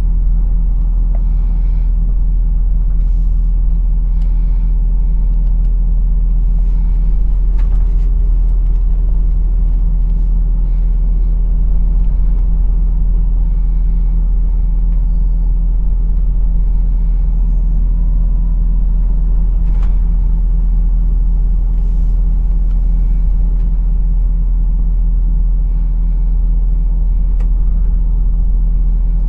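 Heavy truck on the move: a steady low rumble of its engine and road noise, with a few faint clicks.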